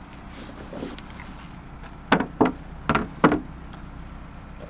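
Four sharp, hollow knocks within about a second and a half, over a steady low hum.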